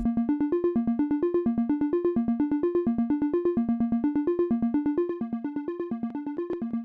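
Electronic music: a synthesizer plays a fast repeating sequence of short, plucked notes, about eight a second, cycling through a few pitches with no drums under it. It gets a little quieter about five seconds in.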